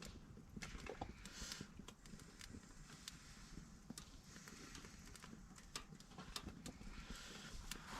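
Firewood in a wheel-rim fire pit: faint, irregular crackles and small knocks with brief rustles, as the wood burns and is shifted about.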